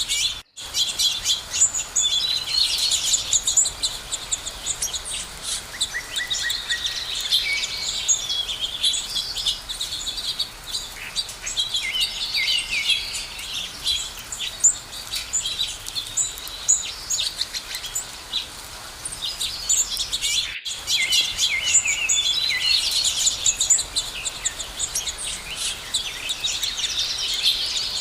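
A dense chorus of many small birds chirping and trilling over one another, high-pitched and continuous. The sound cuts out for an instant twice: just after the start and about two-thirds of the way through.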